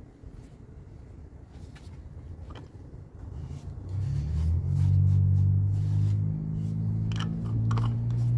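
Low rumble with a few light clicks, then about four seconds in the Suburban's 5.3-litre V8 starts: a short rise in pitch, then a steady low idle.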